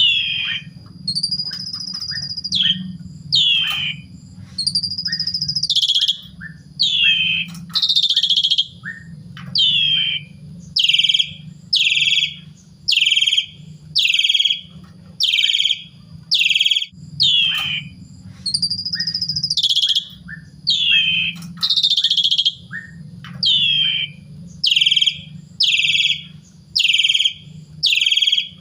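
Javan pied starling (jalak suren) singing loudly: a long series of sharp calls, about one a second, each sliding downward in pitch, with a few longer held whistles that drop at the end. A steady low hum runs underneath.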